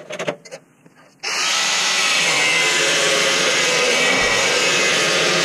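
A power tool starts abruptly about a second in and cuts steadily into 3/8-inch steel plate with a loud, even hiss.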